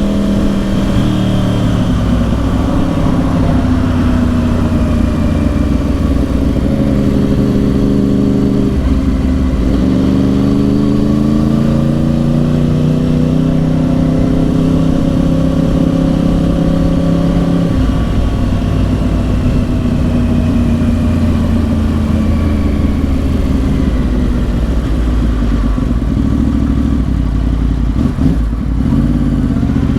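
2010 Yamaha R1's crossplane inline-four running through dual Yoshimura exhausts while riding: the engine note falls early on, climbs under acceleration about ten seconds in, drops suddenly at a gear change around two-thirds of the way through, then sinks slowly as the bike slows, with a brief blip near the end.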